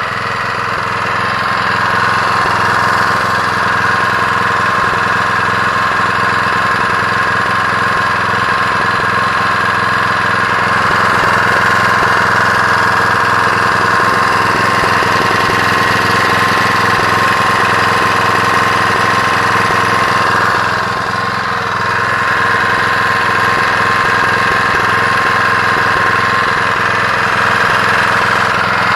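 Honda GX120 single-cylinder four-stroke petrol engine running steadily, dipping briefly about two-thirds of the way through and then picking back up.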